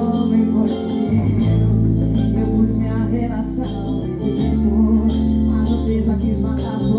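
Live band music with a steady drum beat, sustained bass and guitar.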